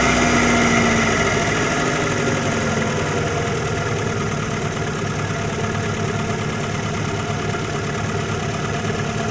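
Opel Omega B's X20XEV 2.0-litre four-cylinder petrol engine idling. Its revs ease down slightly over the first few seconds, then it runs evenly.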